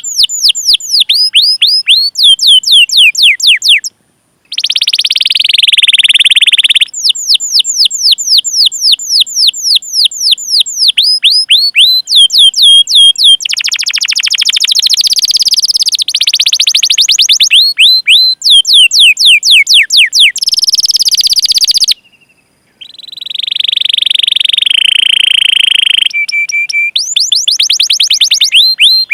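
Domestic canary singing loudly: runs of rapid, falling 'cuit cuit' chirps alternating with long rolling trills. The song breaks off into brief silence twice, at about four seconds and about twenty-two seconds in.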